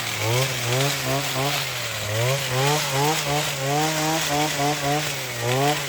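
Motor of a handheld coffee harvester (derriçadeira) running, its pitch rising and falling over and over as the vibrating fingers are worked through the coffee branches.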